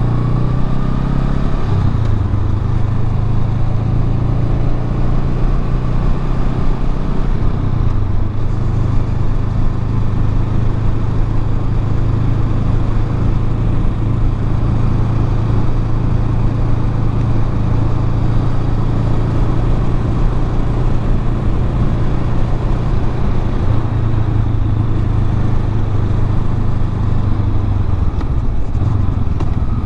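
Honda Rebel 500's parallel-twin engine running through its stock muffler at a steady riding pace, a low, quiet-toned drone with wind noise over it. The engine note shifts slightly about two seconds in and again around eight seconds.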